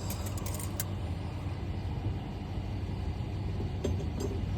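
A few light metallic clicks and snips in the first second as side cutters clip at a wire-harness fastening, over a steady low hum of background machinery.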